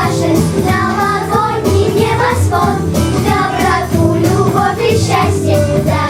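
Children's choir singing over an instrumental backing track with a steady beat.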